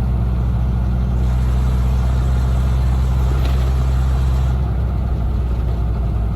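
Freshly rebuilt Toyota 22RE 2.4-litre four-cylinder engine running steadily in a first-generation 4Runner, its note changing a little about two-thirds of the way in.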